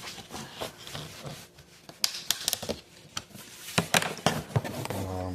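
Takeout food containers and packaging being handled: irregular clicks, taps and rustles of plastic and paper.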